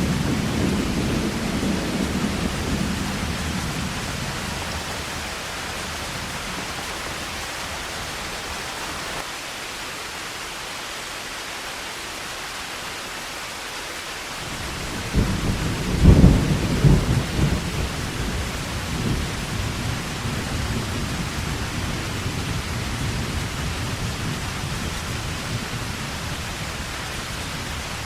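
Heavy rain falling steadily with thunder: a low rumble fades away in the first few seconds, then a sudden thunderclap breaks about halfway through and rolls off over the next couple of seconds.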